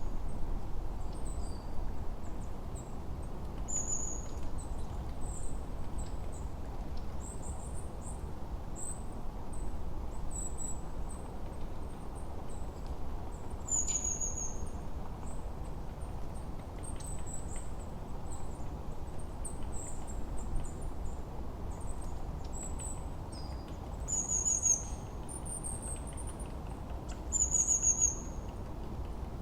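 Forest birdsong: small birds chirping in short, high-pitched notes, with a brief falling call that recurs several times, over a steady low background hiss.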